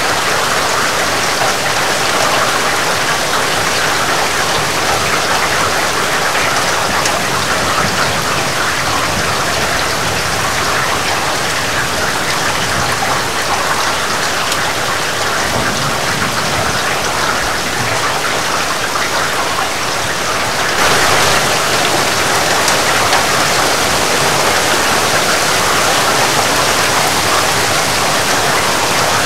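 Heavy rain falling steadily: a dense hiss of countless drops pattering on surfaces. About two-thirds of the way through, the sound abruptly turns brighter and a little louder.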